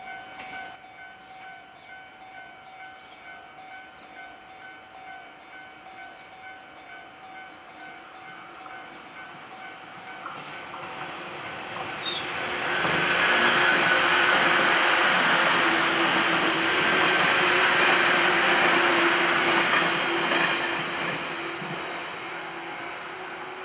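A JR West 117 series eight-car electric train passes at speed. Its noise grows loud about halfway through, holds for several seconds, then fades. A steady pulsing ringing tone sounds before and during the pass.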